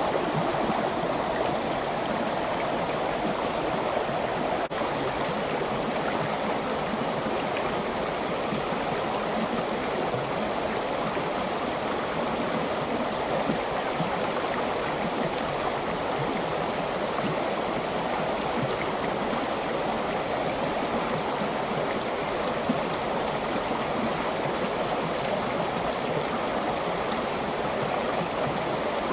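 Creek water running and gurgling over rocks, a steady, even rush with no change.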